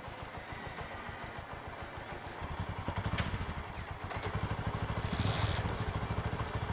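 A small engine running with a fast, even low pulse, louder from about halfway through, with a click about three seconds in and a short hiss a little after five seconds.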